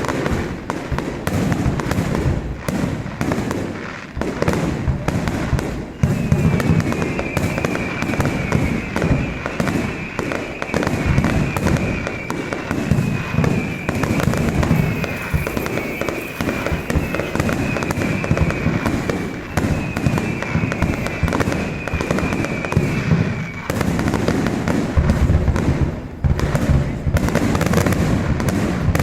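Fireworks display at full barrage: a dense, unbroken run of bangs and crackling. From about six seconds in until about five seconds before the end, a string of high whistles rides over it, each sliding slightly down in pitch.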